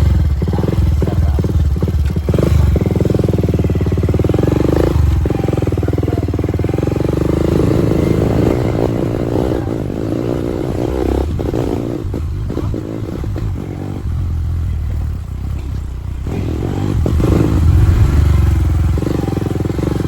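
Motorcycle engine running steadily while riding, its pitch shifting a few times.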